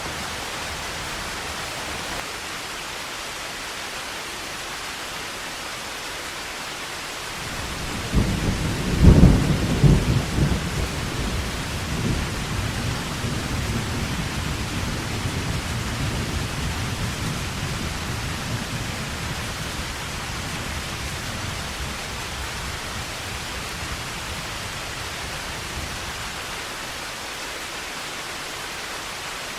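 Heavy rain falling steadily. About eight seconds in, a thunderclap breaks and rolls into low rumbling that slowly fades over the next ten seconds or so.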